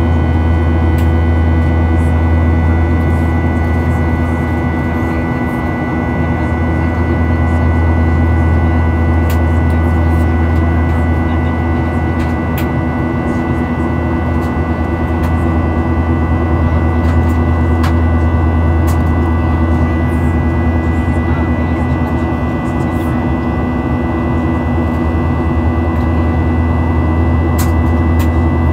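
Steady cabin noise of a Boeing 737-800 in flight, heard from inside: the drone of its CFM56 engines and airflow, a deep hum with a few steady whining tones over it. A few faint clicks sound now and then.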